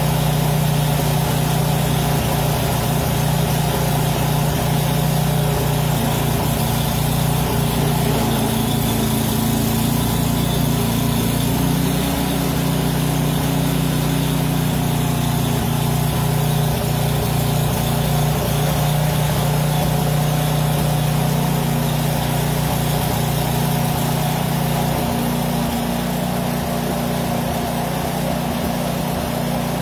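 Small gasoline snowblower engine running steadily, its note wavering a little and easing slightly near the end.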